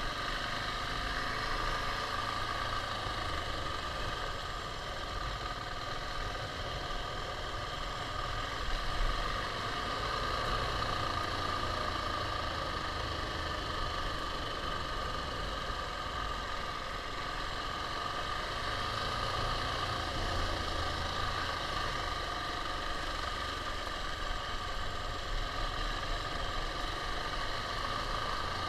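KTM 690 single-cylinder four-stroke motorcycle engine running steadily, with little change in pitch.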